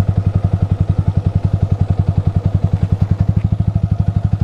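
Yamaha R15 v3's single-cylinder engine through a Ronin Musashi aftermarket exhaust, running steadily at low revs with even exhaust pulses, about a dozen a second.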